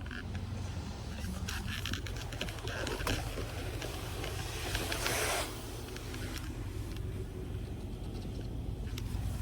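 Automatic car wash machinery heard from inside the car: a steady low rumble with water spray and droplets ticking and pattering on the car body, and a louder spray hiss about five seconds in lasting around a second.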